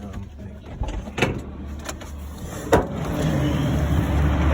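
Motor vehicle running, a low rumble that swells over the last second or two, with a few knocks and one sharp click about halfway through.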